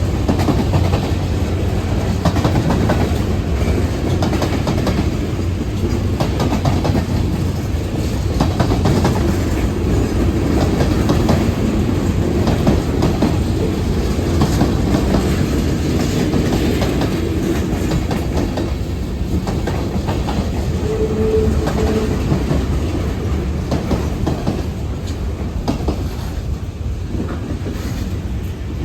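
CSX freight train rolling past, a steady rumble with its cars' wheels clicking over the rail joints, easing slightly near the end.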